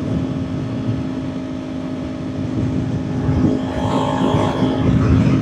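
Kawasaki Ninja 400's parallel-twin engine running at a steady high cruising speed, heard under a heavy rush of wind on the microphone. A brief higher tone joins about four seconds in.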